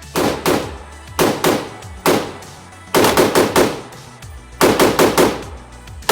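Gunshots on a shooting range, sharp cracks fired in quick strings of two to five shots with short pauses between, over background music with a steady low bass.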